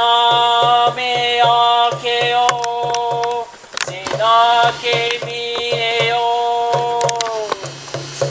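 Male voice singing long held wordless notes that slide up into pitch, over a steady hand-drum beat of about four beats a second: a Native American-style spiritual chant.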